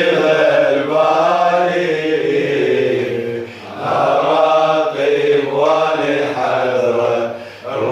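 A male voice chanting an Iraqi Shia latmiya. Each syllable is drawn out in long, wavering melismatic phrases, with a short breath between phrases about three and a half seconds in and again near the end.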